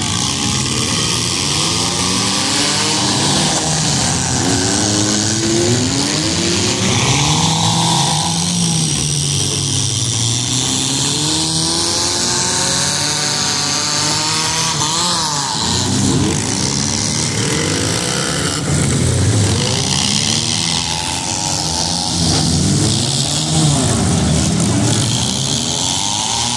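Several demolition derby cars' engines revving hard at once, their pitches rising and falling over one another.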